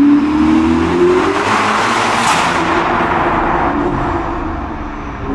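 Ferrari SF90 Spider's twin-turbo V8 through a Novitec sport exhaust, accelerating with the engine note rising in pitch for about the first second and a half, then a broad rush of noise peaking a little past two seconds in before the note settles and slowly fades.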